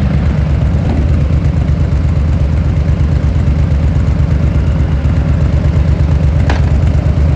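Harley-Davidson Fat Boy Lo's air-cooled V-twin engine idling steadily, a loud, low, evenly pulsing exhaust note with no revving.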